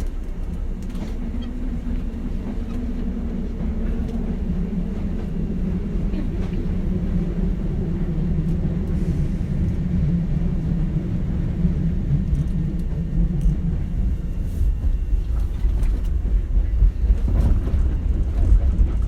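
Running sound heard aboard a Hankyu 7000 series electric train: a steady low hum from the motors and gearing over the rumble of the wheels on the rails, growing louder over the last few seconds.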